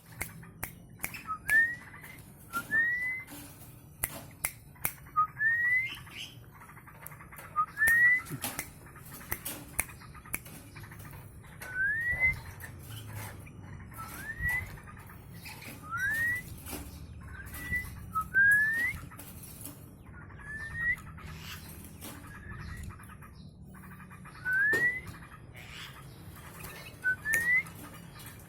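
Short rising whistles, each a quick upward slide, repeated about every one to two seconds, with scattered sharp clicks between them.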